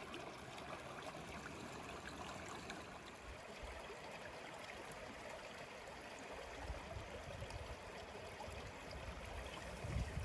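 A small stream running over rocks, a steady, soft rush and trickle of water.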